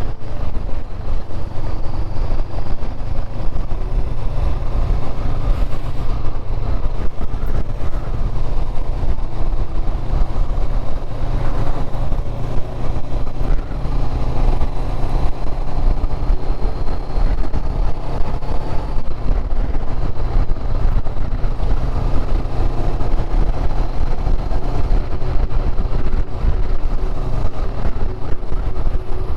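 Motorcycle engine running steadily while riding, mixed with loud low wind and road rumble.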